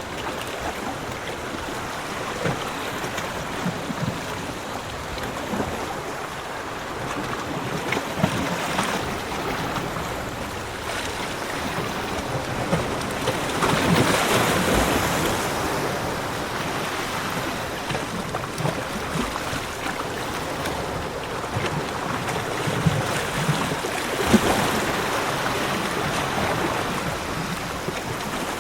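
Ocean surf on a beach: a steady wash of noise from breaking waves, swelling as a wave breaks about halfway through and again near the end.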